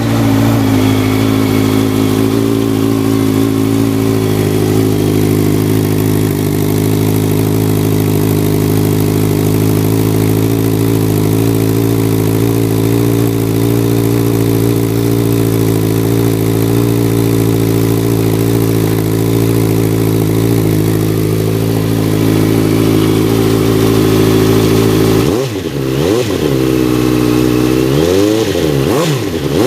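Honda CBR650F inline-four engine idling steadily through an aftermarket exhaust, then revved with several quick throttle blips near the end, the pitch rising and falling with each.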